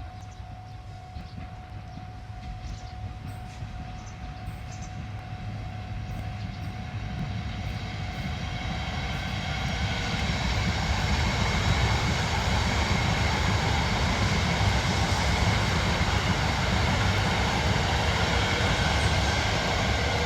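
Tsubasa mini-shinkansen train approaching and passing on conventional track: the rumble and hiss of its wheels on the rails swell over about ten seconds, then stay loud.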